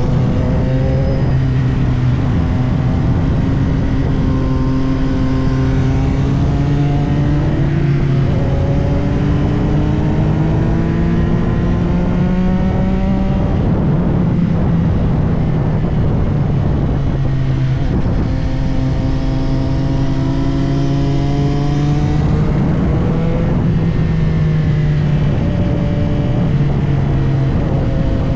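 CFMOTO 675SR-R's inline three-cylinder engine pulling hard through the gears, its pitch climbing and then dropping at each shift several times, over heavy wind rush.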